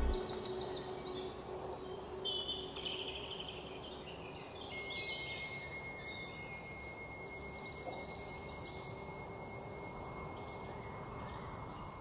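Birds chirping and trilling over a faint background hiss of outdoor ambience, with a thin steady high tone joining about five seconds in.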